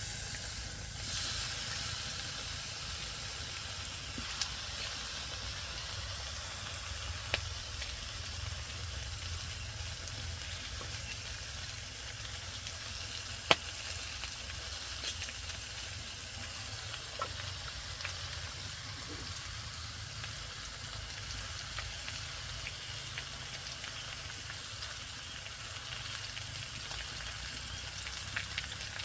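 Food sizzling in hot oil. It starts suddenly about a second in and runs on steadily, with a few sharp clicks.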